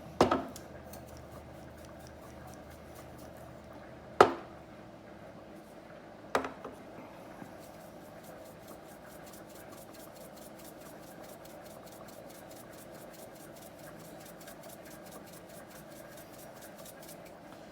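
A few sharp knocks, then a pepper grinder being turned for about ten seconds: a fast, steady run of small clicks.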